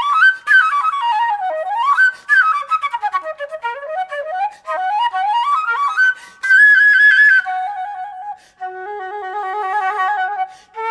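Solo flute playing fast running passages that climb and fall, then a long high note a little past halfway, settling into lower held notes with a wavering vibrato.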